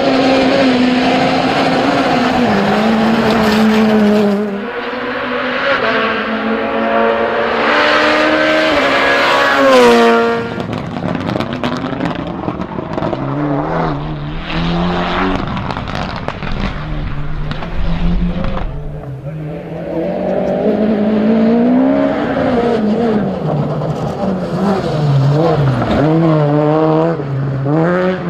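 Rally car engine at high revs, its pitch climbing hard until about ten seconds in and then dropping sharply, followed by revs rising and falling again and again through the gears.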